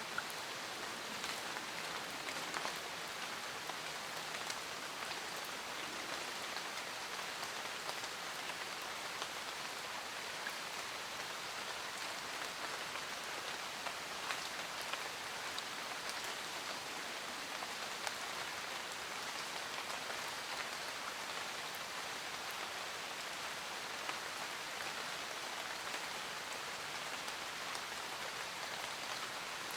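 Steady rain falling, an even hiss with scattered sharper drop ticks on near surfaces.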